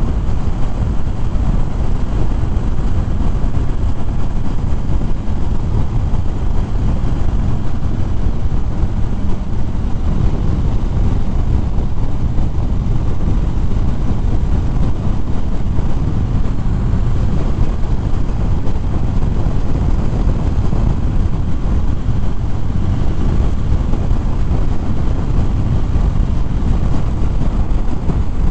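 Motorcycle riding at steady speed: a loud, even rush of wind and road noise with the engine rumbling underneath.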